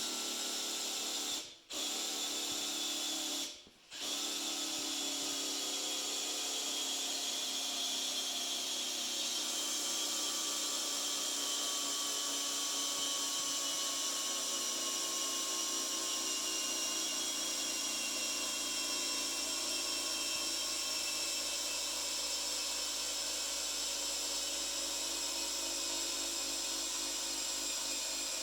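Electric drill on low speed spinning an Oldsmobile 455 V8's oil pump through a socket on an extension, priming the engine with oil. It is a steady motor whine that stops briefly twice in the first few seconds, then runs on without a break, its pitch slowly sinking.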